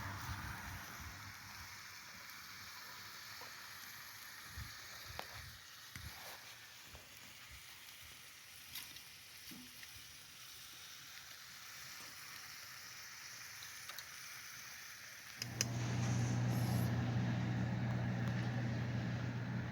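Scattered faint clicks and light knocks over a low hiss, then a steady low hum of a running motor starts suddenly near the end and keeps going, much louder.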